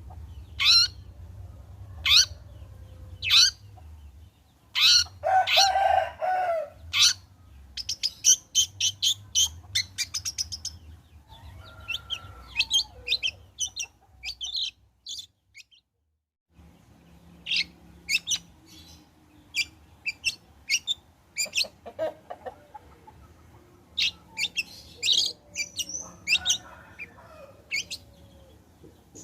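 Long-tailed shrike calling: a string of sharp, harsh notes, a fast rattling run about eight seconds in, and a short pause around the middle.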